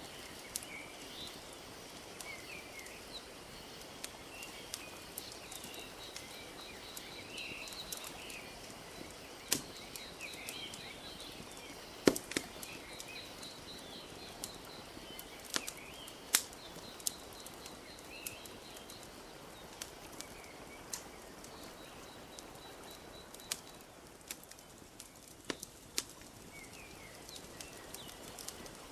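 Wood fire crackling, with sharp pops at irregular intervals and the loudest about twelve seconds in, over a steady soft wash of lake water lapping at the shore. Small birds chirp and trill throughout.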